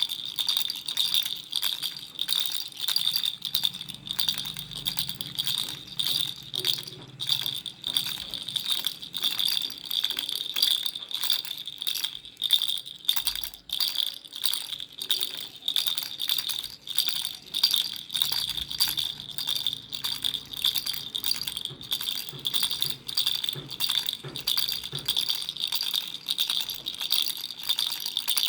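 Baby rattle shaken over and over, a few shakes a second, with a steady high ringing note under the clatter.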